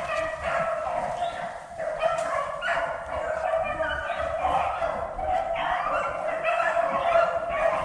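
A pack of beagles baying without a break, several voices overlapping: hounds in full cry running a rabbit's track.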